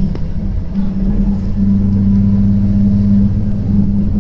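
Regional passenger train running at speed, heard inside the carriage: a steady rumble from the running gear with a low drone from the drive.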